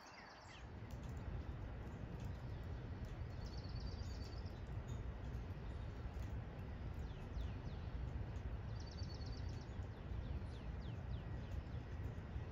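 Songbirds calling: a few short, high, rapid trills and series of quick falling chirps, over a steady low rumble that sets in about a second in.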